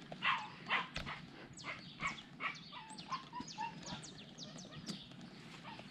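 Birds calling: a rapid series of short, high whistled notes, each falling in pitch, with a couple of faint sharp clicks among them.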